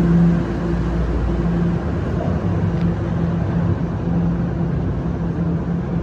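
TTC Line 1 subway train running in a station: a steady, loud low drone with an even rumble.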